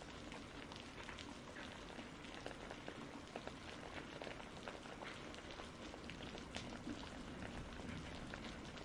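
Steady rain falling, with many small, separate drop ticks over a soft, even hiss.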